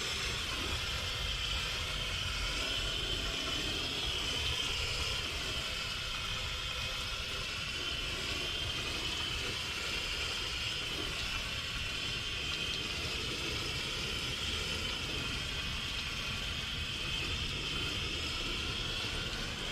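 Garden hose spray nozzle rinsing a boat, a steady hissing spray with a slightly wavering whistle in it that cuts off at the very end.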